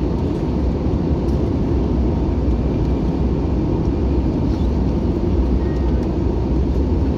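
Steady low cabin rumble inside an Airbus A321-200: engine and airflow noise with a faint steady hum on top.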